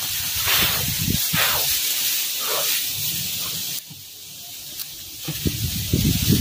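Strong wind rushing through the foliage as a steady hiss with rustling, cutting off sharply about four seconds in; near the end, gusts begin to buffet the microphone with a low rumble.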